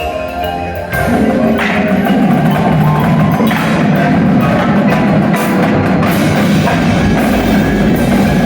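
Wind and percussion ensemble playing. About a second in the full band enters loud on sustained low chords, with percussion strikes, including wood block and chimes, cutting through every second or two.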